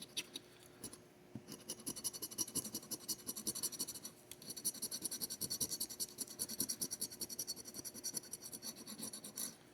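A scratch-off lottery ticket being scratched in rapid, repeated back-and-forth strokes, with a short pause about four seconds in.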